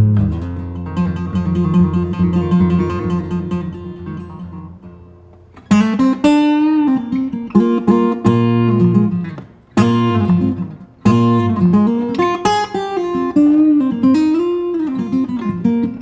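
Background music on acoustic guitar: chords ring out and slowly fade, then a new phrase starts about six seconds in, with repeated plucked attacks and notes that bend up and down in pitch.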